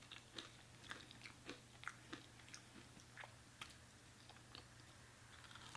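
Faint chewing, with soft wet mouth clicks every third to half second that thin out in the last couple of seconds, over a faint steady low hum.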